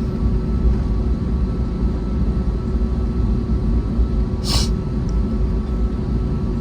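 Cabin noise inside an Airbus A321neo: a steady, loud low rumble of the Pratt & Whitney PW1100G geared turbofans and airflow, with a steady hum over it. A brief hiss about four and a half seconds in.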